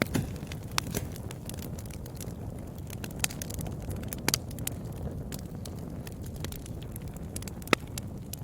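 Wood fire burning in a fireplace: a steady low rumble of flames with irregular crackles and sharp pops, the loudest pop near the end.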